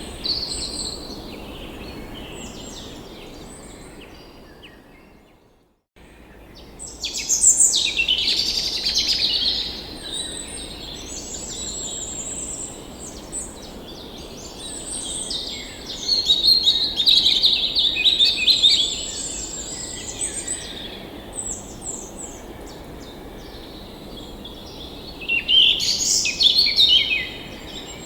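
Songbirds singing and chirping in bursts over a steady background hush. The sound fades out to a moment of silence about five seconds in, then the birdsong comes back, loudest in three spells.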